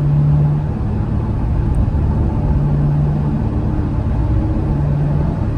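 2016 Corvette Stingray Z51's 6.2-litre V8 and exhaust running at a steady cruise, with tyre and road rumble; a low drone swells and fades three times.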